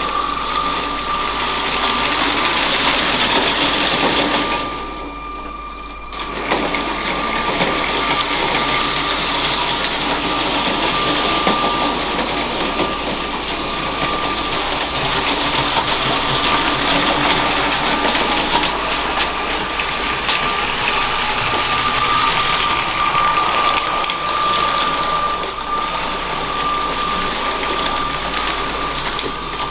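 Motorised LEGO train running on plastic track: a steady motor whine over the rough rattle of the wheels. It drops away briefly about five seconds in.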